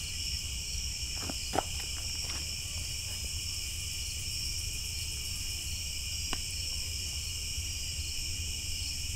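A steady chorus of night insects, crickets chirring continuously in several high pitches, with a few faint clicks about a second and a half in and again past six seconds.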